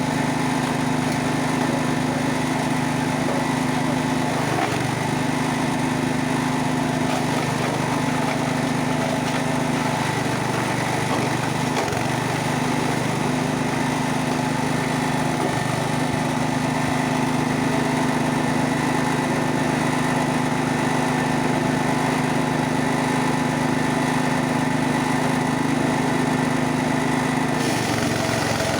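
Engine-driven wood chipper-shredder running steadily at a constant speed. Its note dips briefly about four times in the first half.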